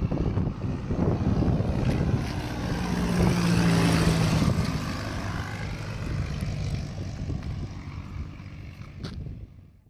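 Propeller-driven light aircraft engine passing by, growing loud to a peak about four seconds in and then fading away.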